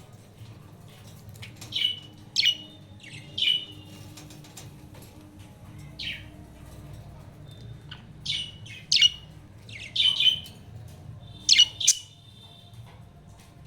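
Pet budgerigars chirping: short, sharp chirps in scattered bursts, coming thicker and louder in the second half.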